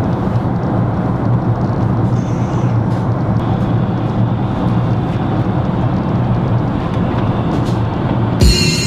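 Jet airliner cabin noise in cruise flight: a loud, steady rumble of engines and airflow. Near the end, music with a beat cuts in.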